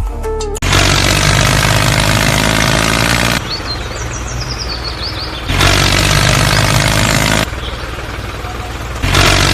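Tractor engine running, switching abruptly three times between loud stretches of about two to three seconds and quieter running between them.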